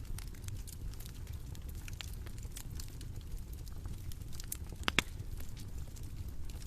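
Bonfire crackling: a steady low rumble of burning with scattered sharp pops and snaps, one louder pop about five seconds in.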